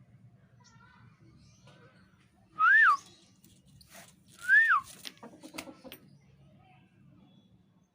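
Two short whistled notes about two seconds apart, each rising and then falling in pitch, with faint scattered clicks between them.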